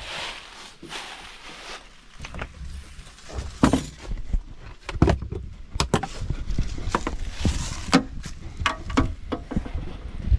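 Irregular knocks and clatters, a dozen or so spread unevenly, with rustling and a low rumble between them, as of gear being handled.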